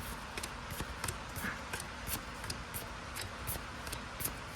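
Pokémon trading cards being handled and flipped through one by one: light, irregular clicks and slides of card on card, a few each second.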